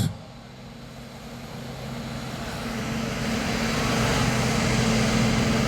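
International Harvester 2+2 farm tractor's diesel engine under full load pulling the sled, a steady heavy drone that grows louder over the first few seconds and then holds.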